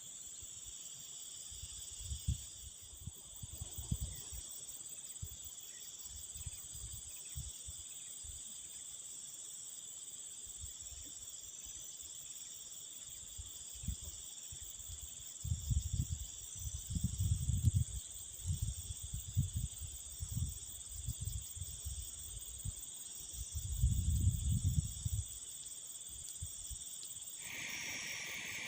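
Steady, shrill chorus of crickets, joined now and then by low rumbles of wind gusting on the microphone. Near the end the insect chorus changes pitch.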